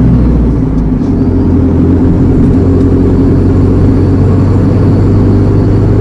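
Iveco Eurocargo lorry's engine running on the move, heard from inside the cab as a loud, steady low drone. Its lowest note changes about a second in.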